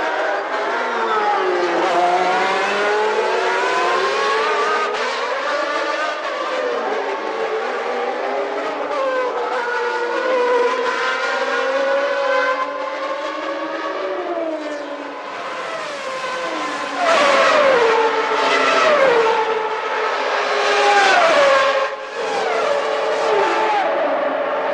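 Several naturally aspirated 3.5-litre Formula One engines of 1991 running together at high revs, their pitches climbing through the gears and dropping as they shift. From about two-thirds of the way in the sound gets louder, with quick repeated falls in pitch as cars brake and downshift close by.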